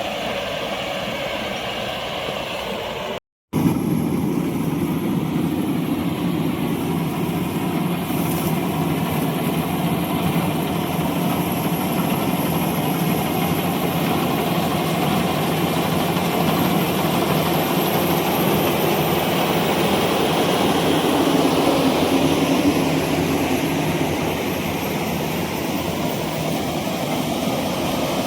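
Combine harvester engine and machinery running steadily, cutting out for a moment about three seconds in and then resuming.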